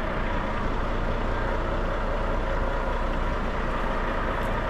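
Semi truck's diesel engine running steadily at low speed while the rig backs up.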